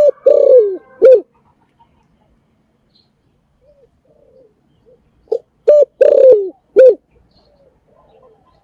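Spotted dove cooing: one phrase ends in the first second, and a second full phrase of four coos comes about five and a half seconds in. Each phrase has short notes around a longer middle coo that falls in pitch.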